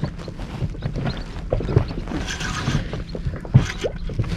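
Water sloshing around a small inflatable boat at sea, with irregular knocks and a brief splash-like rush about two seconds in.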